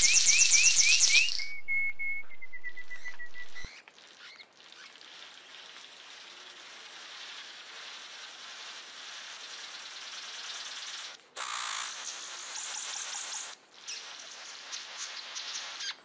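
Birds chirping: a quick run of rising high chirps, then a held high note for about two seconds, then a dense, continuous chatter of high chirps that breaks off briefly twice.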